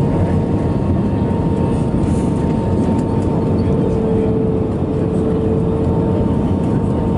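Steady jet engine and airflow noise inside the cabin of an Airbus A320 with CFM56 engines, a deep rushing sound with a steady hum running through it.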